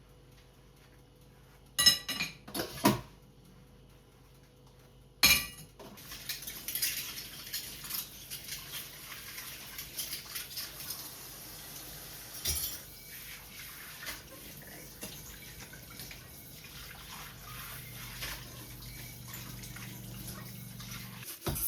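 Kitchen work: a few sharp clinks of dishes or cutlery in the first seconds, then a steady faint crackling with small clicks and an occasional clink.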